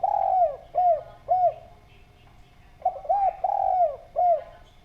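Spotted dove (derkuku) cooing loudly. The first phrase ends with a long coo and two short notes, and about three seconds in a second full phrase follows. It is a run of short arched coos with one drawn-out note before the last.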